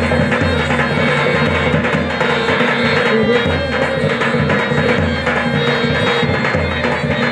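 Instrumental passage of Rajasthani folk music: hand drums keeping a steady rhythm under a held, reedy melody line.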